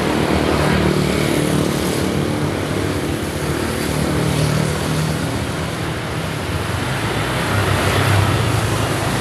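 Motor vehicle engine running steadily, with road and wind noise; its low hum drifts up and down in pitch.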